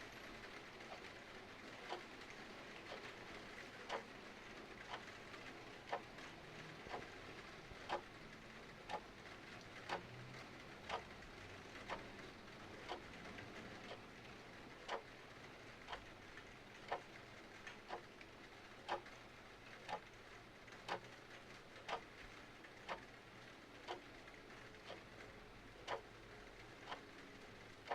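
Mechanical clock ticking about once a second, the ticks alternating stronger and weaker, over a steady hiss of rain.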